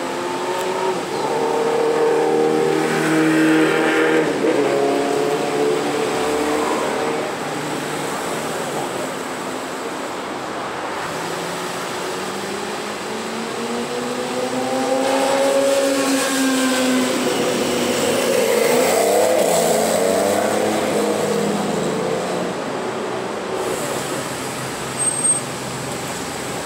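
Porsche cars pulling out of a garage one after another, their engines revving up and falling back in three separate goes as each drives off.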